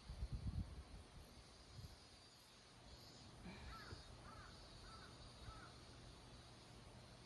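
Mostly near silence, with a few low thumps at the start, then a bird calling faintly four or five times in quick succession about halfway through, over a faint steady insect hiss.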